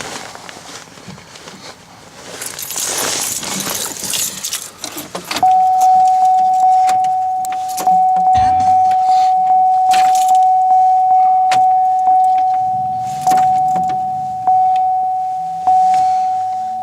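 Keys jangling and rustling, then a 2008 Pontiac Grand Prix's electronic warning chime starts about five seconds in. It sounds one clear tone over and over, each ding fading, about two a second at first and slowing to about one a second near the end.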